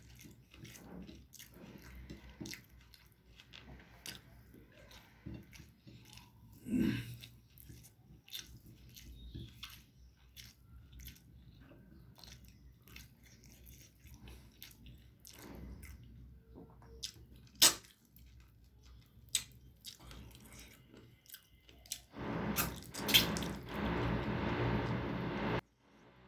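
Close-up eating sounds of a person eating rice and curry: wet chewing and mouth clicks, with many short sharp clicks scattered through. Near the end comes a louder, rougher stretch of sound, which cuts off suddenly.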